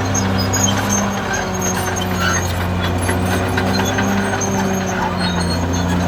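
Caterpillar D6R XL bulldozer's diesel engine running steadily at working revs, with light clinks and rattles over it.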